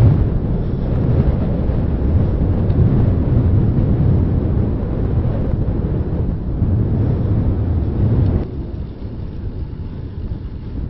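Wind buffeting a handheld camera's microphone while riding a bicycle: a loud, low rumble that drops off sharply about eight and a half seconds in.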